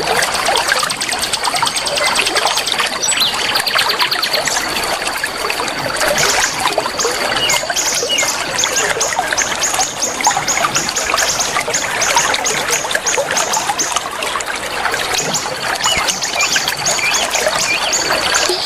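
Trickling water with many small birds chirping over it. A steady high-pitched tone runs through it, and from about six seconds in a quick regular series of high pulses, two or three a second, joins it.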